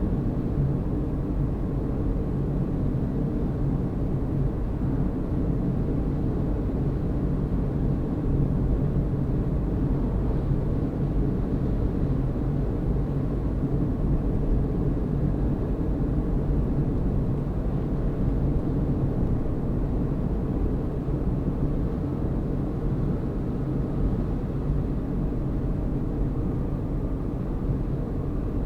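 Car driving at a steady speed: a constant low rumble of engine and tyres on the road.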